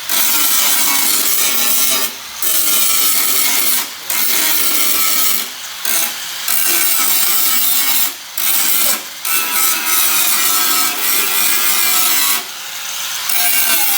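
Harsh, continuous rasping noise of metalwork on a rusted Vespa floor panel, in stretches of one to two seconds broken by short pauses.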